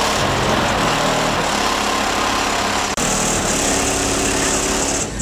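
A car engine running loud, with a dense exhaust noise over low steady tones that shift in pitch, and a sudden break about three seconds in.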